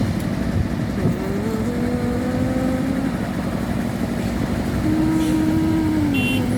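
Road vehicle engines running in traffic, a dense steady rumble. An engine note rises about a second in, and another held note comes in about five seconds in and drops away near the end.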